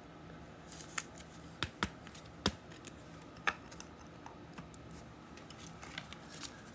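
Trading cards and their plastic sleeves being handled on a table: scattered light clicks and taps over a quiet background, coming closer together near the end.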